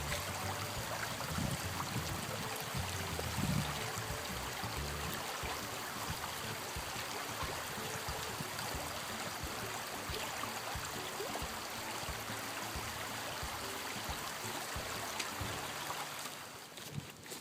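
Running water, like a small stream trickling, steady throughout, with soft background music of held low notes underneath, clearest in the first seconds.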